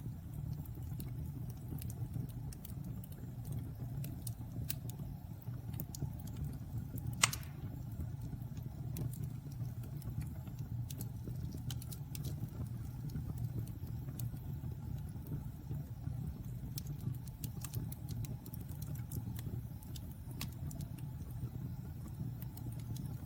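Wood fire burning in a fireplace: a steady low rumble with scattered crackles, and one loud pop about seven seconds in.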